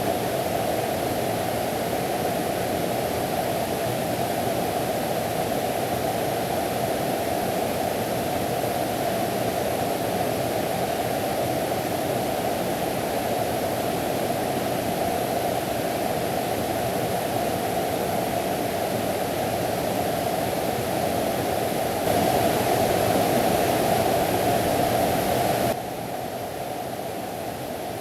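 Mountain stream water rushing in a steady, even noise. Near the end it grows louder for a few seconds, then drops suddenly to a lower level.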